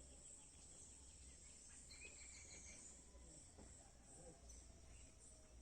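Faint countryside ambience: a steady high-pitched insect drone such as crickets, with a few faint bird chirps and a low rumble underneath.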